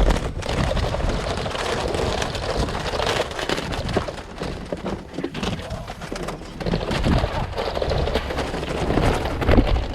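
Many ring-necked pheasants beating their wings in a dense, continuous crackling flurry as they are chased and netted in a pen.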